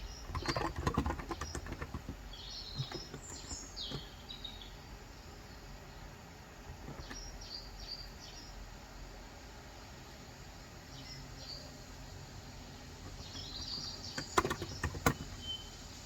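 Two bursts of rapid keystrokes on a Cox Endeavour electrostatic capacitive (contactless) 35 g tenkeyless keyboard, one at the start and one near the end, with short high bird chirps in between over a steady low background hum.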